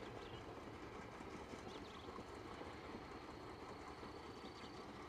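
Diesel locomotive at the head of a freight train running with a steady low rumble as it approaches along the track.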